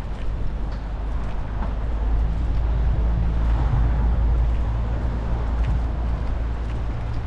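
A road vehicle's engine running close by, a low rumble that swells about two seconds in and eases off slightly toward the end, with faint scattered ticking over it.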